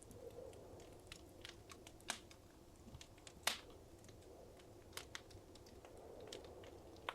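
Wood fire crackling in a fireplace: irregular sharp pops and snaps over a soft low rumble of the flames, the loudest pops about two and three and a half seconds in.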